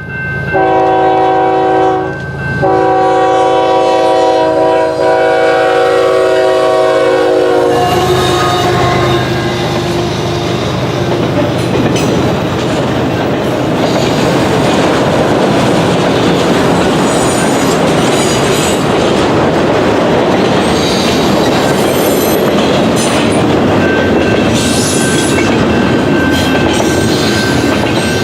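Horn of the leading CP ES44AC diesel locomotive sounding two blasts, a short one then a long one, as the westbound intermodal train approaches. The locomotive then passes and the cars roll by with a steady rumble and clickety-clack of wheels over rail joints, with a thin wheel squeal near the end.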